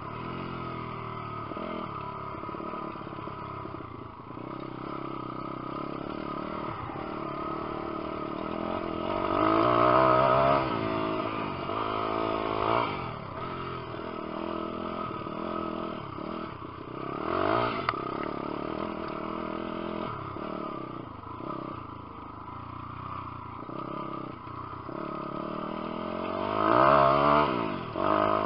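Lifan 150cc single-cylinder four-stroke pit bike engine being ridden hard, its revs rising and dropping again and again through gear changes and throttle. It is loudest in a long rev about a third of the way in and again near the end.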